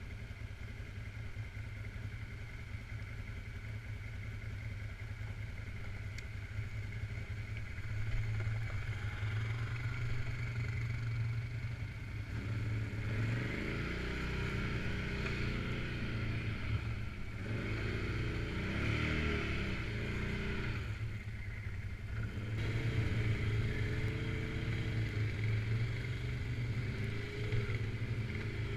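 Suzuki KingQuad 750 AXi ATV engine running under way off-road, its pitch rising and falling again and again as the throttle is opened and eased about halfway through and near the end.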